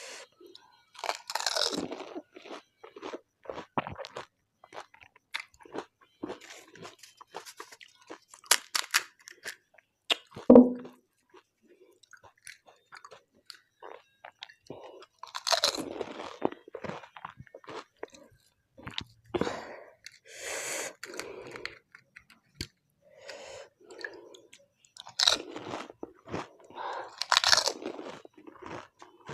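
Close-up crunching and chewing of panipuri: crisp fried puri shells bitten and chewed with their spicy potato and mint-coriander water filling, in irregular bursts. There is one louder sharp sound about ten seconds in.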